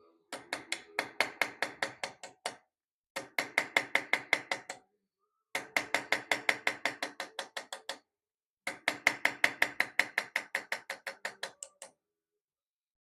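Small hammer tapping rapidly on a chasing tool, setting copper wire inlay into the grooves of a wrought-iron cross-guard. Four runs of quick, ringing metal taps, about seven a second, with short pauses between.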